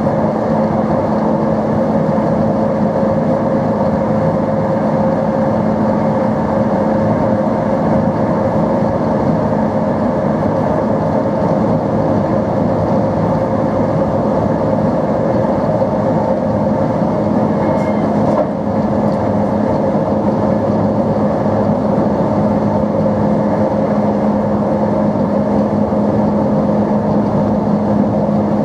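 NMBS/SNCB AM80 'Break' multiple unit running, a steady motor hum with two held tones over rumbling running noise. The lower tone grows stronger in the second half.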